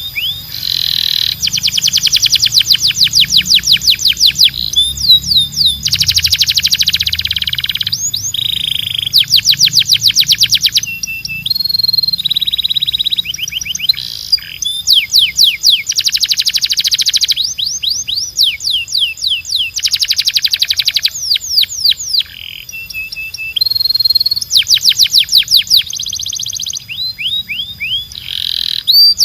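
Domestic canary singing a loud, continuous song: rapid trills of fast repeated notes alternate with held whistled notes and quick downward slurs, one phrase straight after another.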